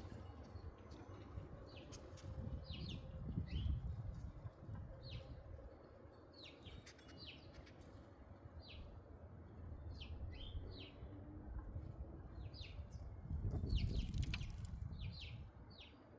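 Birds chirping: many short, high chirps scattered throughout, with two bouts of low rumbling, a few seconds in and again near the end.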